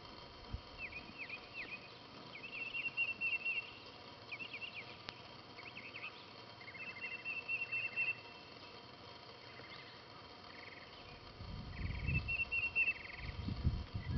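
Songbirds calling, with repeated short down-slurred notes and several quick high trills. A low rumbling noise rises twice near the end.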